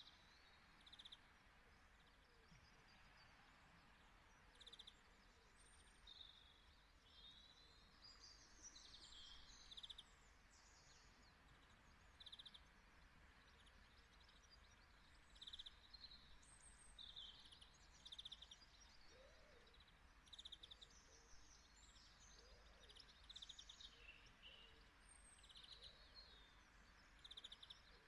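Faint birdsong: many short chirps and trills from small birds, repeating every second or two over a low steady hiss.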